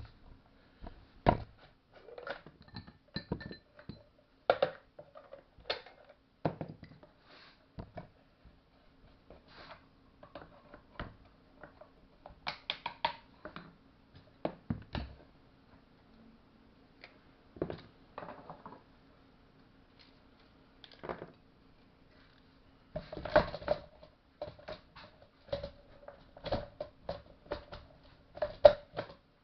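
Irregular clicks, knocks and clinks of metal tools and parts being handled during hand work on a STIHL MS-180 chainsaw, growing denser and more ringing near the end.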